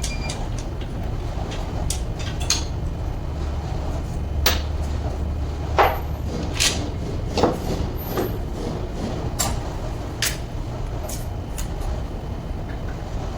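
Metal tools knocking, tapping and clinking irregularly on a truck alternator being worked on, a few strikes ringing briefly, over a steady low rumble.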